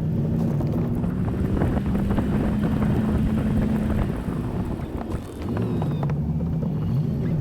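2004 Chevy 1500 pickup's engine running while plowing snow, its pitch dipping and coming back up about five seconds in, with many small knocks and rattles over it.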